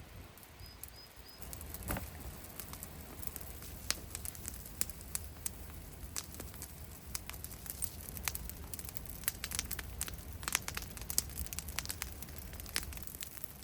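Burn pile of brush cuttings and old wood crackling and popping: irregular sharp snaps throughout over a steady low rumble.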